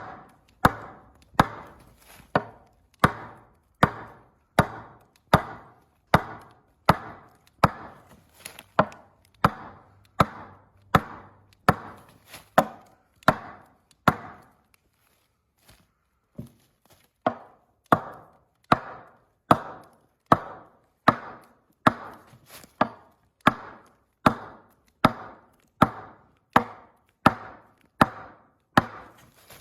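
Repeated sharp strikes on wood, about one every 0.8 seconds, each with a short fading ring, stopping for about three seconds midway and then resuming at the same pace.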